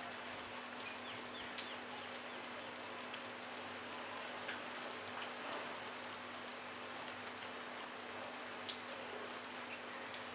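Light rain falling steadily on a brick wall and rooftops, a soft even patter with a few louder single drops now and then.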